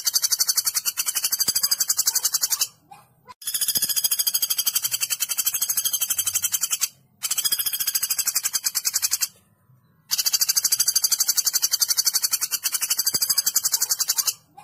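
Woodpecker calling in long, rapid, high-pitched trills of evenly repeated notes, about eight to ten a second, four runs of two to four seconds each with short pauses between.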